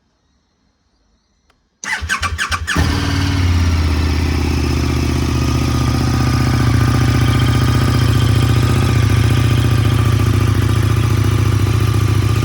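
KTM 1290 Super Duke RR's V-twin engine cranked on the electric starter about two seconds in. It catches within a second and settles into a steady idle through its stock Akrapovič exhaust.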